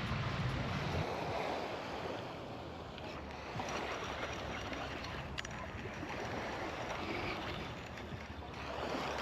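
Steady rush of water washing at the shore, with wind on the microphone, and a single sharp click about five seconds in.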